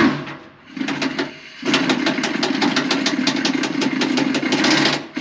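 Impact wrench backing out a bolt from the combine's feederhouse floor. After a sharp knock at the start and a short burst about a second in, it hammers steadily and rapidly for about three seconds, then stops.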